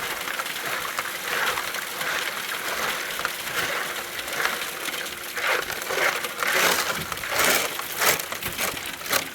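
Gravelly dirt and rock crunching and scraping, with irregular crunches that come thicker and louder in the second half.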